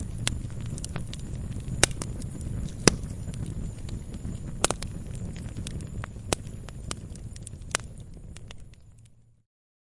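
Wood fire crackling: scattered sharp pops and snaps, a few much louder than the rest, over a low steady rumble of flames. The sound fades out in the last second into a brief silence.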